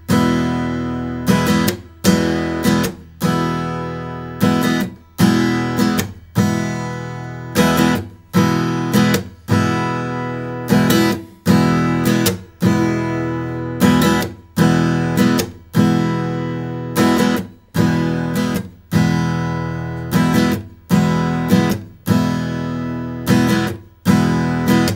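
Acoustic guitar strummed in a steady repeating down-up pattern, with sharp percussive muted strokes, where a downstroke damps the strings, recurring at even intervals to keep the groove.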